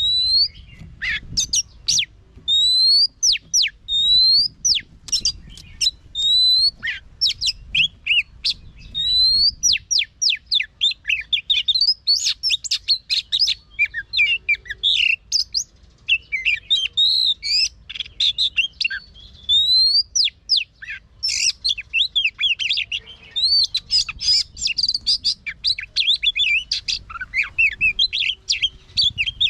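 Oriental magpie-robin singing: clear rising whistles repeated about once a second, then from about ten seconds in a fast, dense, varied warble.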